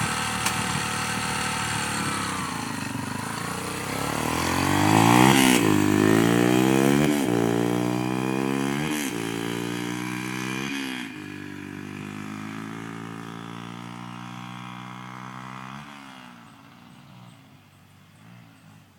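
Dirt bike engine, freshly kick-started, running and revving, then pulling away through several gear shifts. Its pitch climbs and drops back at each shift, and it fades as the bike rides off.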